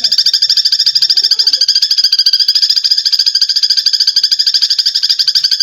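Eurasian tree sparrows chattering in a fast, unbroken stream of harsh chirps: the agitated calls of sparrows fighting.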